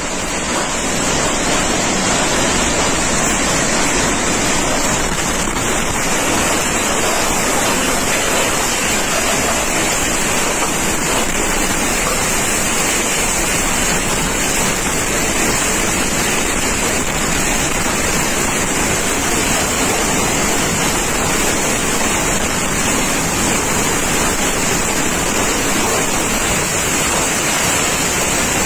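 Loud, steady rushing of a severe storm's wind and heavy rain, unbroken throughout.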